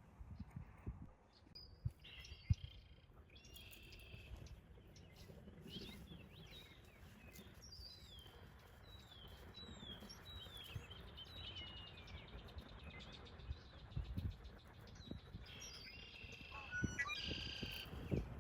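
Small birds chirping faintly outdoors: a run of short, quick chirps that drop in pitch, repeated over several seconds, with other bird calls around them. A few low thumps are heard, one about two and a half seconds in.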